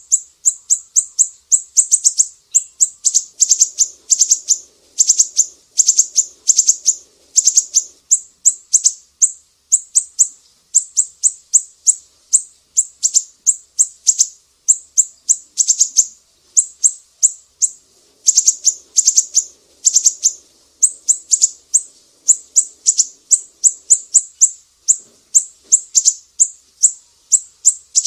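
Sumatran siri-siri bird singing: a fast, continuous string of sharp, high chirps, about three or four a second, broken into clusters by brief gaps.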